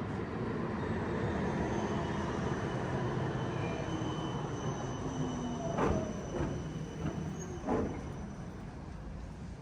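Tram passing close by: a steady rumble of steel wheels on the rails with a faint high wheel squeal, and two louder knocks about six and eight seconds in.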